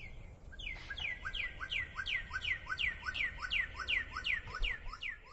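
A bird calling a rapid, even series of repeated down-slurred whistled notes, about four a second, starting just under a second in.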